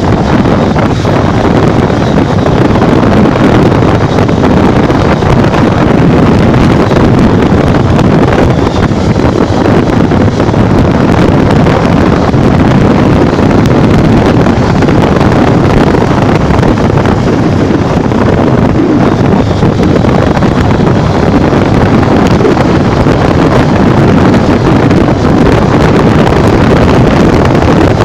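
Loud, steady wind rush buffeting the microphone of a Honda NXR 150 Bros motorcycle ridden at full throttle, with road and vehicle noise underneath.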